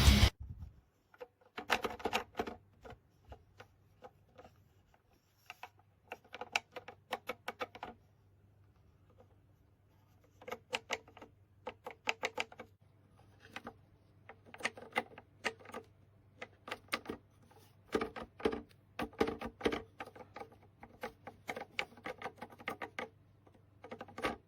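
Bursts of rapid, sharp clicking, several clicks at a time with short pauses between, over a faint steady low hum.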